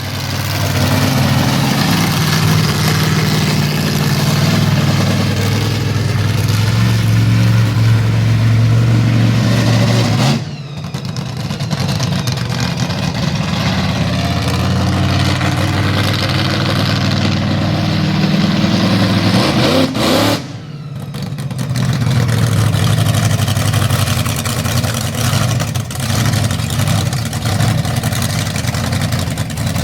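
Monster truck engine running hard and revving, rising and falling. The sound drops out abruptly twice, about ten and twenty seconds in.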